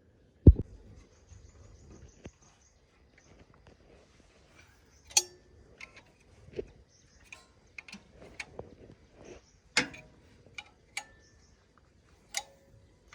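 Scattered metallic clinks and taps of a spanner on an injector nozzle pipe and its fittings as the pipe is refitted to the diesel engine, a few of them ringing briefly. A heavier knock comes about half a second in.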